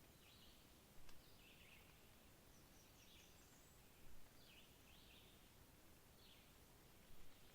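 Faint, distant bird calls over quiet background hiss: short chirps repeated about once a second, with a few higher twitters in the middle. A faint click about a second in.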